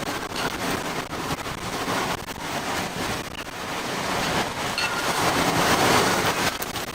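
Hurricane eyewall wind and driving rain rushing against a moving vehicle: a steady noise with no pitch to it that swells in a gust, loudest about five to six seconds in.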